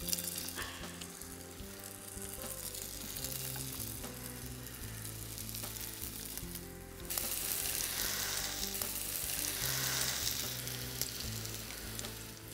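Chicken-and-potato hash cakes sizzling in hot oil in a non-stick frying pan as they are laid in one by one; the sizzle grows louder about seven seconds in as more cakes go into the oil.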